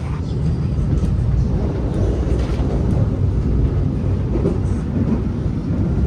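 Passenger train carriage running along the track, heard from inside: a steady low rumble with a few faint light clicks and rattles. It gets louder suddenly right at the start.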